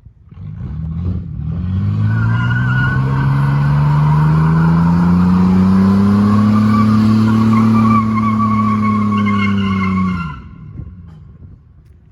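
Chevy S10 pickup with no muffler, its engine revving up hard through a burnout, the pitch climbing over the first several seconds and held near full throttle with the rear tyres squealing, then the throttle is let off about ten seconds in.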